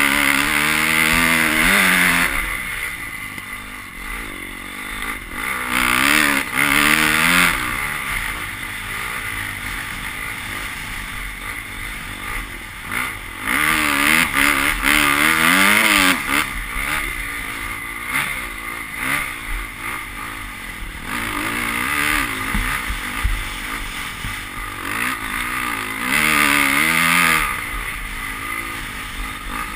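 Motocross bike engine on a sand track revving hard and easing off over and over, its pitch wavering up and down. There are four loud surges of throttle: at the start, about six seconds in, around fourteen seconds, and near the end.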